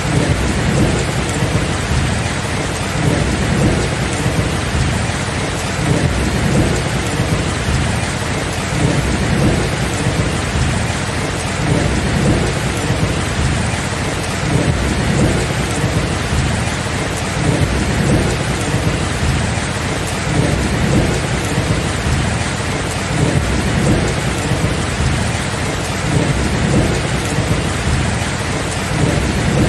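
Steady rain with a low rumble of thunder beneath it, swelling and fading every second or so without any sharp crack.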